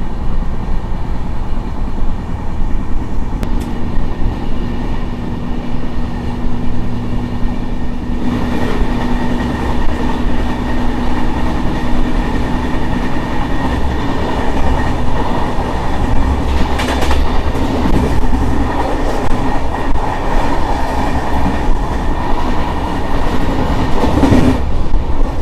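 Passenger express train running on the track, heard from on board: a continuous rumble and clatter of coach wheels over the rails, growing louder about a third of the way in, with a low steady hum through the first half.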